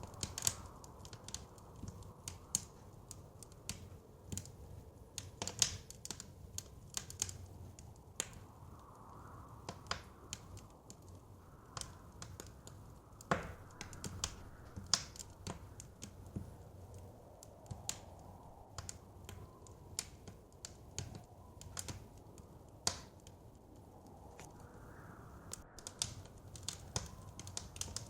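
Wood fire crackling, with frequent irregular sharp pops over a low steady rumble, and soft blizzard wind swelling and fading in the background.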